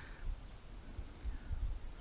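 Quiet open-field ambience with a faint, uneven low rumble and no clear bird calls.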